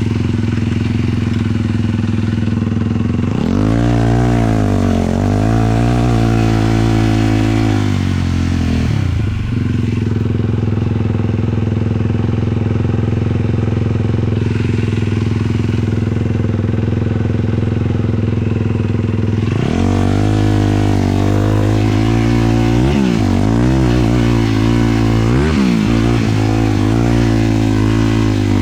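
A 450cc sport quad's single-cylinder four-stroke engine under way, revving up and down repeatedly over a few seconds, then holding a steady pitch for several seconds before revving up and down again.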